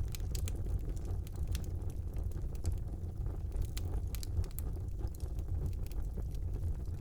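Wood fire burning in a brick fireplace: irregular sharp crackles and pops over a steady low rumble of the flames.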